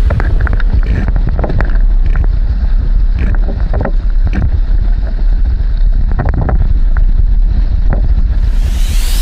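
Wind buffeting the microphone aboard a racing sailing dinghy, a heavy steady rumble, with irregular water slaps and knocks against the hull.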